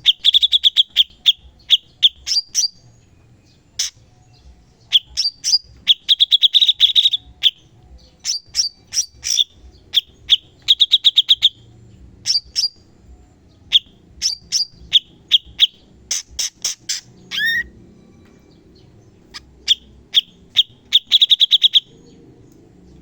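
Cucak cungkok singing: short, loud phrases of rapid-fire, sharp staccato notes and quick trills, the 'shots' prized in song training, with brief pauses between phrases and a falling whistled note about seventeen seconds in.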